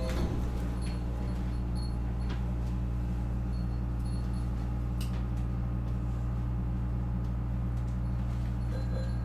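Steady hum inside a Nankai 8300 series electric train car standing at the platform with its doors closed, the pitch fixed with no motor whine rising yet, and a few faint clicks.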